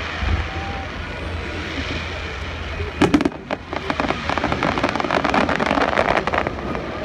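Fireworks going off: a few sharp bangs about three seconds in, then a dense, rapid crackling for about three seconds that dies away. Under it runs a steady background of crowd noise.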